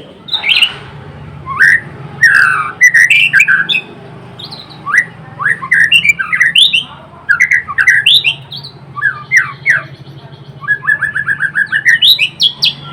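White-rumped shama singing loudly and without pause: varied phrases of sweeping whistled notes, a buzzy trill in the middle, and near the end a fast run of short repeated notes.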